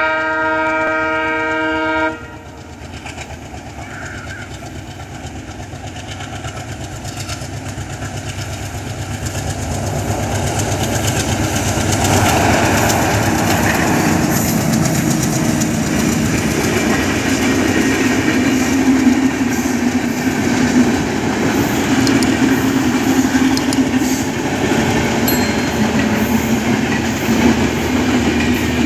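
Diesel locomotive's horn sounding a chord of several steady tones, stopping about two seconds in. Then the passenger train approaches and passes: its rumble grows louder over about ten seconds and stays steady as the coaches roll by, with the wheels clattering over the rail joints.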